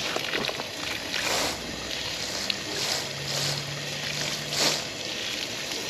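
Water from a garden hose running at full pressure, rushing and gurgling as it flushes a clogged dehumidifier drain line, with swells of gushing every second or so.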